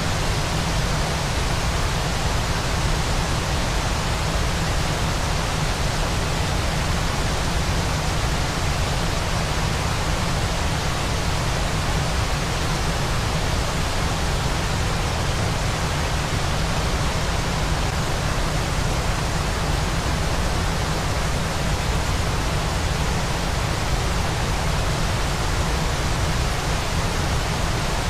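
Steady, unchanging rush of a waterfall, with a strong low rumble beneath.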